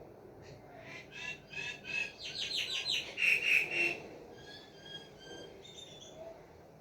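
A bird calling: a run of repeated notes that starts about a second in, quickens and is loudest around three to four seconds in, then trails off into softer notes.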